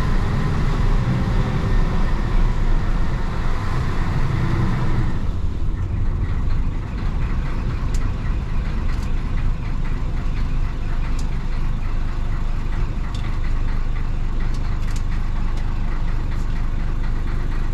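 1966 Isuzu BXD30 bonnet bus's DA640 diesel engine pulling hard, then easing to a lower, steadier run about five seconds in, with scattered light clicks and rattles.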